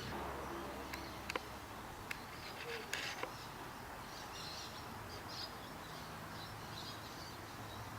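Quiet outdoor background with a few light clicks and taps in the first few seconds and faint bird chirps later on.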